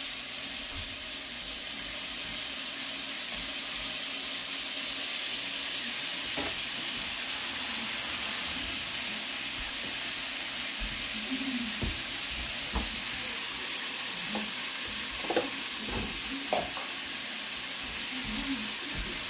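Ground beef, garlic, onion and tomato sautéing in oil in a stainless steel pan: a steady sizzle, with a few faint clicks now and then.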